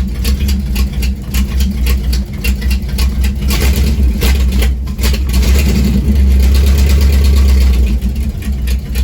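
Small-block Chevy V8 with a new Holley carburetor running just after being started, with a rough, pulsing low rumble through a partly finished exhaust. It runs louder and steadier for a few seconds past the middle.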